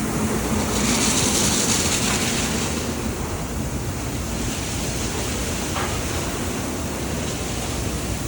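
Sonny's tunnel car wash equipment running: a steady rushing hiss of water spray and air over a faint low hum, swelling louder for a couple of seconds about a second in.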